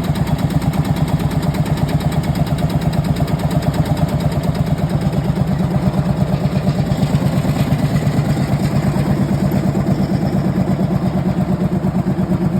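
Marshall 18/30 tractor's single-cylinder two-stroke diesel engine idling, with an even, rapid thump of about seven beats a second.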